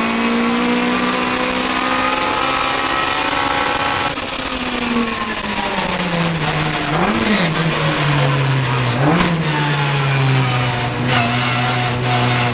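Competition car's engine heard from inside the cockpit: running at high revs, then lifting off about four seconds in, the revs falling away with two quick rises and falls in between, before settling to a lower steady note.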